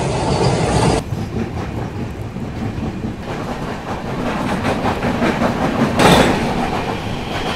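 Running noise of a moving passenger train heard from its open doorway: wheels clattering rhythmically over the rails under a steady rush of air. The rush is louder in the first second and again about six seconds in.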